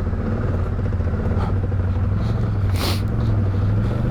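ATV engine running steadily at low speed, its pitch rising slightly near the end. A brief hiss or scrape cuts in about three seconds in.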